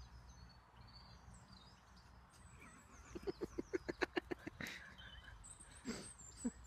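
Faint chirping of small birds, with a quick run of about a dozen short, lower bird calls from about three seconds in, and one or two more near the end.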